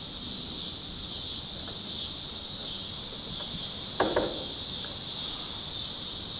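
Steady high-pitched insect chorus of crickets or cicadas, with two short knocks in quick succession about four seconds in.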